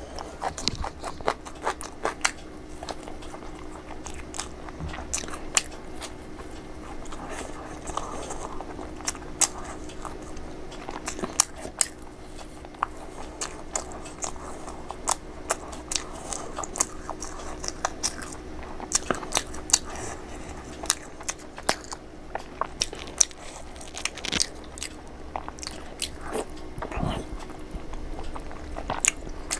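Close-up crunching and chewing of a crisp fried bread pakoda, with many sharp, irregular crunches as it is bitten and chewed, over a faint steady hum.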